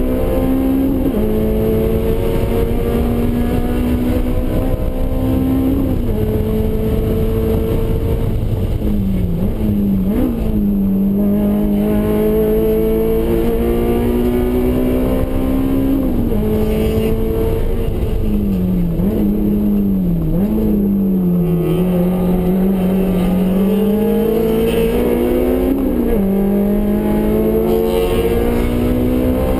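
Honda S2000's inline-four engine with a custom exhaust, heard from inside the cabin while lapping a race track under hard throttle. The engine note climbs through the revs and drops sharply at each upshift, and twice it falls away with brief jumps in pitch, as with braking and downshifting. Steady wind and tyre noise run underneath.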